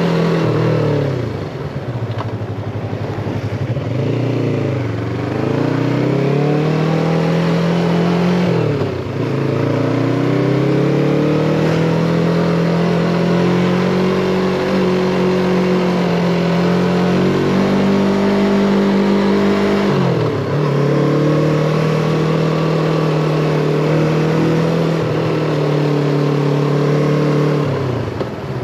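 Yamaha MT-25's 250 cc parallel-twin engine running under way, heard from on the bike, its note dropping sharply and climbing back several times and holding steady in between.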